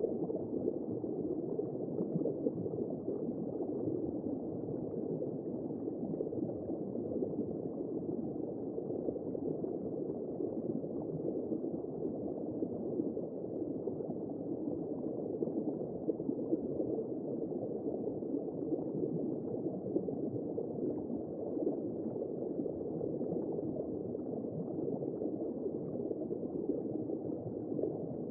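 Womb-sound white noise for soothing a baby: a steady, muffled low whooshing with no high end.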